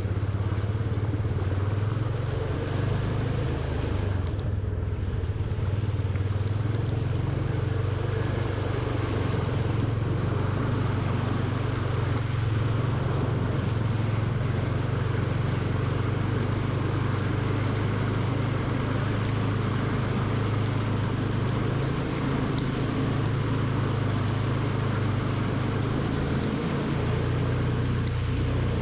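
A vehicle engine running steadily under a continuous rushing noise, with no break or change.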